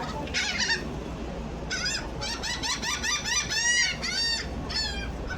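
Seagulls calling: a short squawk just after the start, then from about two seconds in a rapid run of repeated high cries, each rising and falling in pitch.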